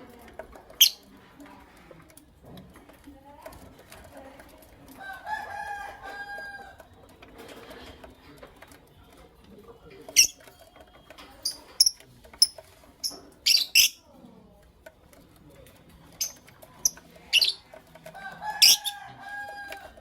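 Lovebirds giving short, sharp, high-pitched chirps, scattered singly and in quick clusters, with two longer, lower calls, one about five seconds in and one near the end.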